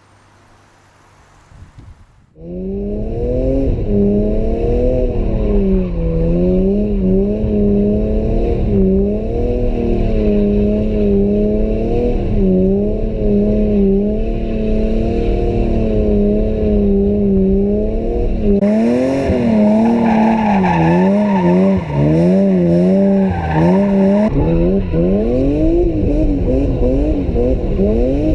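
BMW M3 straight-six engine revving hard through an aftermarket exhaust, loud, its pitch rising and falling over and over. It starts abruptly after about two seconds of quiet.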